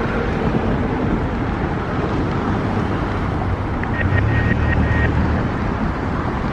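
Steady vehicle rumble with a noisy haze, swelling a little about four seconds in, when a short run of high beeps is heard.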